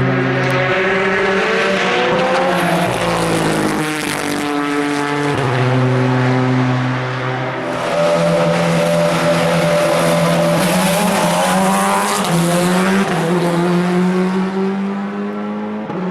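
Endurance race cars running at speed, several engine notes overlapping, gliding up and down in pitch and stepping sharply between gears.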